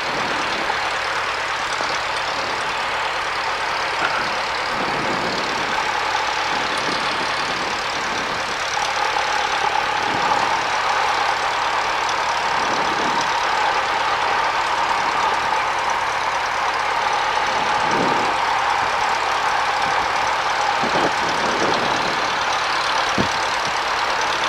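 Cessna 172's piston engine idling, a steady hum heard inside the cockpit, growing slightly louder about nine seconds in.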